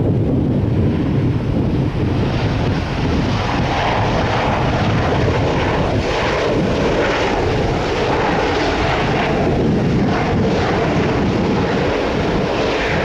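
Jet airliner passing on its landing approach: a loud steady engine roar, with a brighter hiss joining it about two seconds in.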